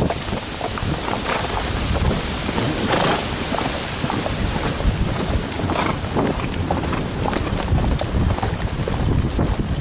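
Rain and wind noise on the microphone of a camera riding on horseback: a steady low rumble with scattered sharp taps, over a horse's hoofbeats on a dirt trail.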